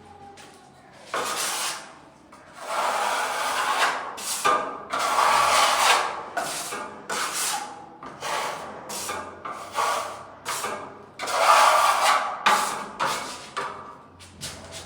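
A hand tool rubbing and rasping against a surface in a string of irregular strokes, some short and some over a second long.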